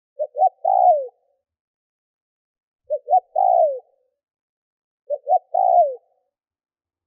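Spotted dove cooing three times, evenly spaced. Each call is two short notes followed by a longer, falling coo.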